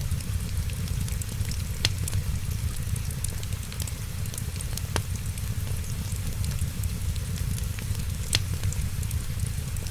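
Fireplace crackling, with three sharp pops standing out among many small ticks, over a steady low rumble and hiss of rain.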